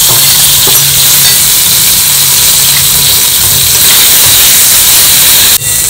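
Boiled taro root pieces sizzling in hot oil in a kadai as they are tipped in and stirred with a steel spatula: a steady frying hiss over a low hum.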